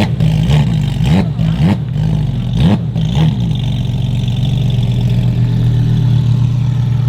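Car engine running loud, blipped in short revs several times over the first three seconds, then settling into a steady idle.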